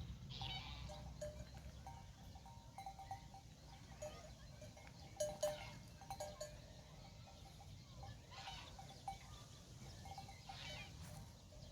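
Bells on a grazing flock clinking faintly and irregularly, over a low steady rumble.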